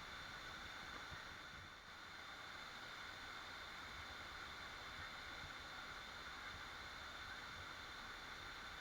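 Waterfall rushing: a steady, even hiss of falling water, dipping slightly for a moment about two seconds in.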